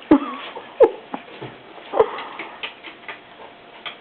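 A dog giving three short, sharp whimpering cries, each dropping in pitch, within the first two seconds, with light ticking between them.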